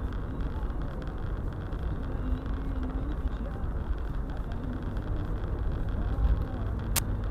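Steady low rumble of a four-wheel-drive car driving, heard from inside the cabin: engine and tyre noise on a snowy road. A single sharp click near the end.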